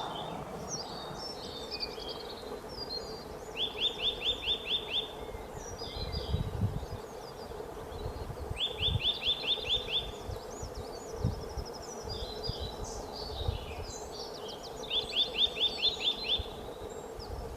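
A songbird singing in the open: high, varied twittering. Three times, about five seconds apart, the song breaks into a quick run of about eight even notes lasting just over a second.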